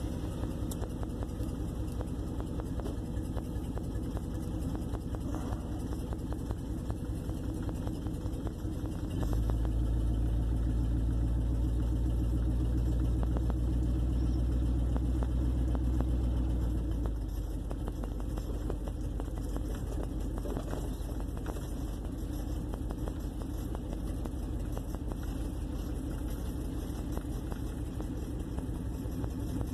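1958 Plymouth Suburban running while being driven, heard from inside the car: a steady engine and road rumble that grows louder from about nine seconds in, holds for some eight seconds, then drops back.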